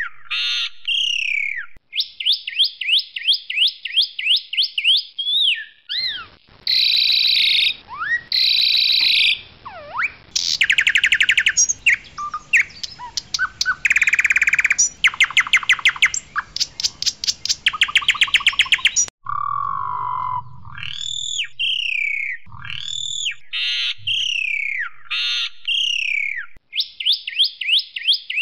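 Pied myna (jalak suren) singing loudly: repeated down-slurred whistled phrases alternating with rapid runs of short clipped notes.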